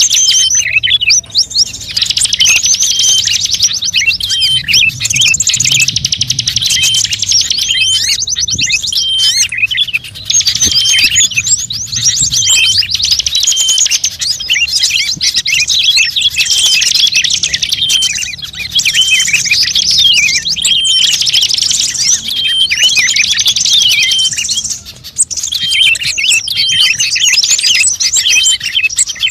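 Bird-lure recording of small songbirds chirping and trilling in a dense, unbroken run of high, rapid calls, with a few brief gaps.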